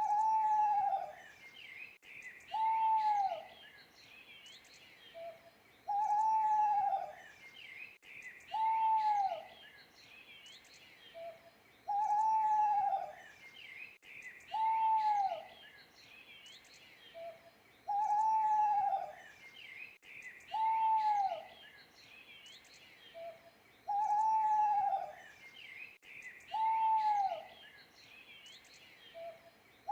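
An owl hooting in a regular repeating phrase about every six seconds: a short soft note, then two longer hoots that rise and fall in pitch. Small birds chirp faintly in the background.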